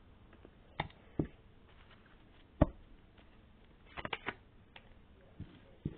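Tarot cards being handled, a scattering of short taps and flicks. The sharpest comes about two and a half seconds in, and a quick run of three or four follows about four seconds in.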